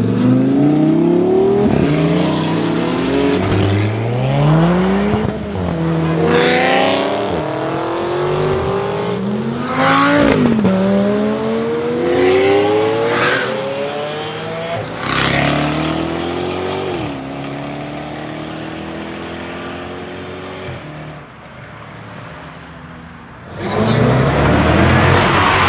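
Supercharged 5.0-litre V8 of a Jaguar F-Type SVR accelerating hard through several upshifts: the pitch climbs, drops at each gear change and climbs again, with sharp exhaust cracks at the shifts. The engine then fades away, and about two seconds before the end a loud engine sound comes in suddenly.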